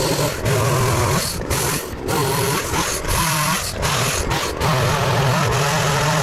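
Poulan Pro gas chainsaw running and cutting into a fallen tree trunk, its engine note swelling and dipping as it works in the cut. The chain is dull.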